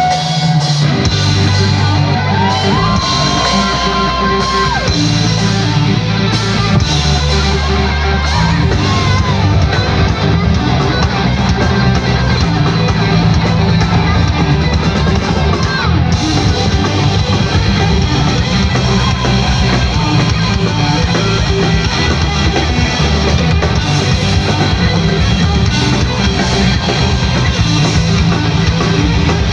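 Live rock band playing loudly: electric guitar over bass and drums.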